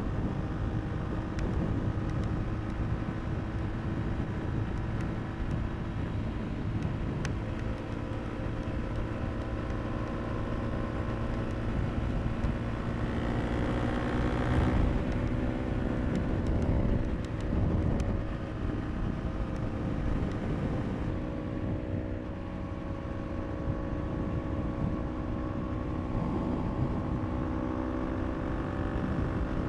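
KTM RC390 single-cylinder engine running under way at steady cruising revs, with road and wind rush. About halfway through the engine note climbs briefly, and about two-thirds of the way through it drops suddenly to a lower, steady pitch.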